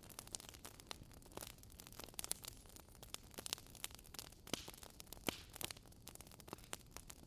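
Wood fire in a fireplace crackling: irregular sharp pops and snaps over a low steady rumble of the burning logs, with a couple of louder pops about halfway through.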